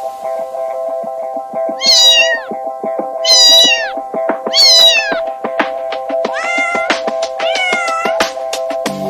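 Domestic cat meowing five times, long drawn-out calls about a second apart. The first three fall in pitch and the last two hold steadier. A steady droning tone runs underneath.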